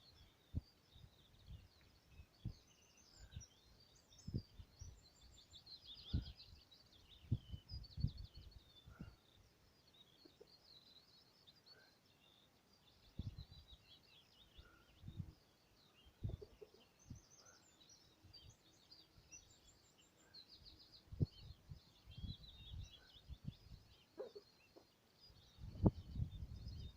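Small birds chirping and twittering on and off, with scattered low thuds, the loudest near the end.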